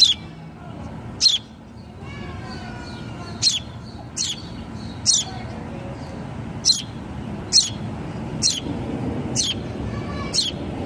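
A small bird giving short, high chirps that drop sharply in pitch, about ten of them spaced roughly a second apart. Other birds call faintly in the background.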